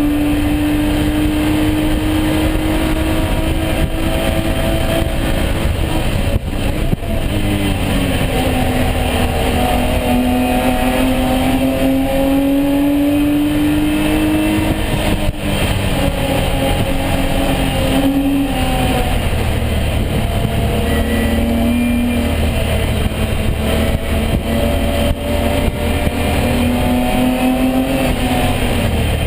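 Onboard sound of a BMW E36 race car's engine at racing speed, the engine note climbing steadily under acceleration and dropping sharply several times as the driver shifts or lifts for corners, over constant road and wind rumble.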